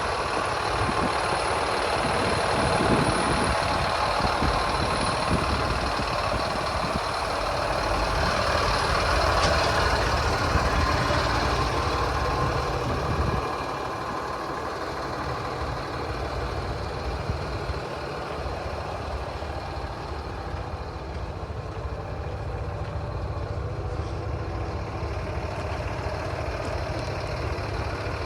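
The diesel engine of a 2007 Sterling Acterra truck idling steadily, becoming somewhat quieter about thirteen seconds in.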